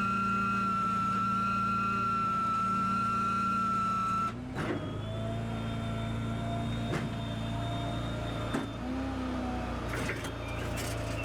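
Vehicle engine running steadily with a high steady whine over a low hum. About four seconds in the sound changes abruptly to a different, lower steady hum, with a few scattered clicks and knocks.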